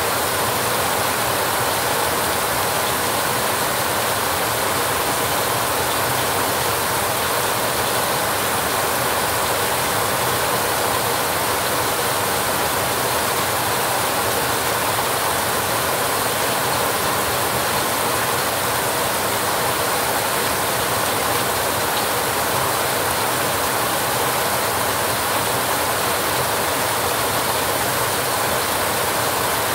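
Heavy rain falling steadily on a rusty metal roof: a dense, even drumming hiss that does not change.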